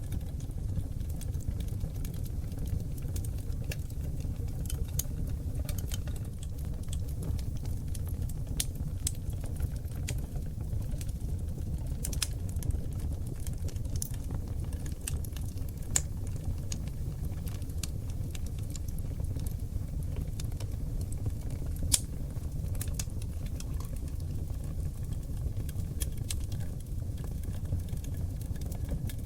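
Oak log fire burning in a fireplace: a steady low rumble of flames with irregular crackles and pops throughout, two pops sharper and louder than the rest around the middle.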